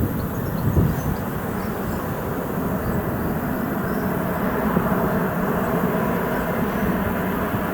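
Boeing 747-400 freighter's four turbofan engines on approach to landing, a steady low rumble growing slightly louder.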